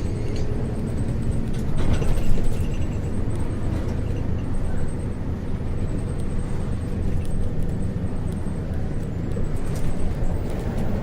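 Isuzu U-LV224N route bus with its 6QB2 diesel engine running steadily while under way. A brief louder clatter comes about two seconds in, and a few sharp rattles near the end.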